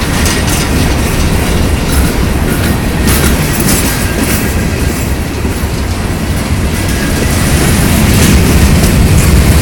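Freight train cars rolling past close by: a loud, steady rumble with wheels clicking over rail joints, growing a little louder near the end.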